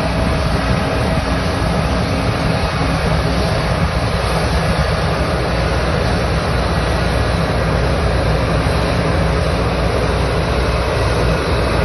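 Combine harvester running steadily, a constant engine drone with noise over it.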